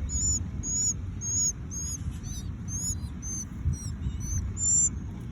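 Six-day-old baby northern mockingbirds giving rapid, high-pitched begging chirps, about two and a half a second, as hungry nestlings being fed. A low rumble runs underneath.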